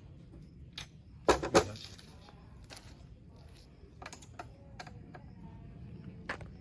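Hard parts of a camping kitchen box being handled during disassembly: scattered small clicks and knocks, with two sharp clatters close together about a second and a half in.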